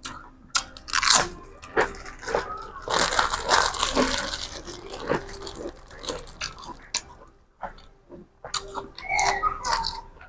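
A person biting and chewing crisp raw vegetables and spicy grilled pork salad, in a run of crunches with a dense stretch of crunching about three to five seconds in.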